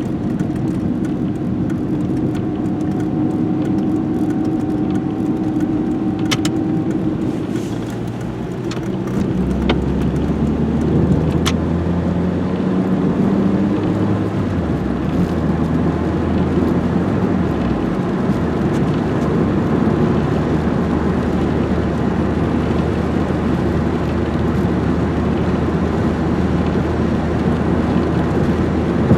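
Renault 21 GTS's 1.7-litre carburettor engine running as the car drives. Its note shifts several times in the first half, then holds steady.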